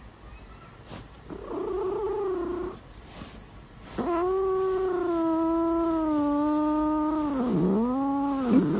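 Domestic cat yowling: a short drawn-out cry about a second in, then a long, steady yowl of several seconds that wavers down in pitch twice near the end.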